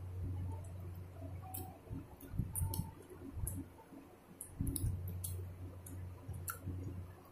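Close-up eating sounds: chewing a hand-fed mouthful of rice and chicken curry, with many sharp, irregular wet mouth clicks and smacks over a steady low hum.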